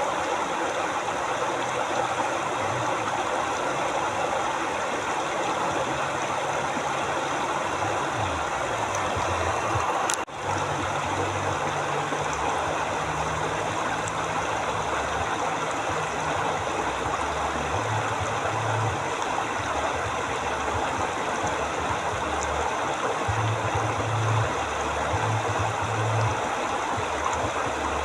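Steady rushing of a river flowing, with a low, shifting hum beneath it and a brief dropout about ten seconds in.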